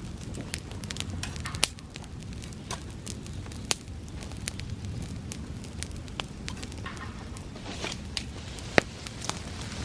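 Bonfire of dry summer grass burning: a steady low rush of flame with irregular sharp crackles and pops, the loudest pop coming near the end.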